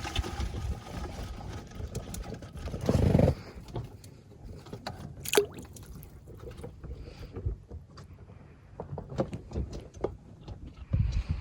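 Scattered knocks and clicks of crab-trap gear being handled aboard a small boat, with a short low rumble about three seconds in and a sharp click a couple of seconds later.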